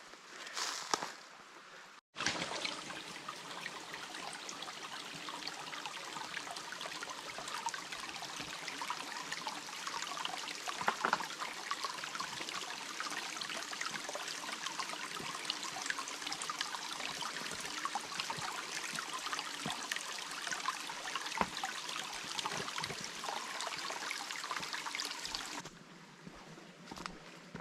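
Steady trickle of running water with a fine, crackling texture. It starts suddenly about two seconds in and drops away shortly before the end.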